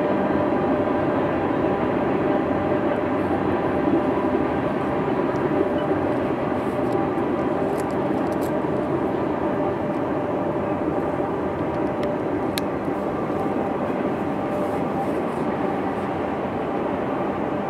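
A long freight train's cars rolling past at a distance: a steady rumble of steel wheels on rail, with faint steady tones running through it.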